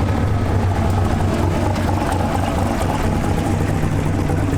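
Twin-turbo big-block Chevy V8 drag car idling steadily, a deep, even drone.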